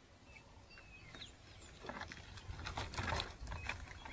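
Faint outdoor bush ambience with a few short bird chirps, then irregular crackling and rustling that grows louder from about two seconds in, like something moving through dry vegetation.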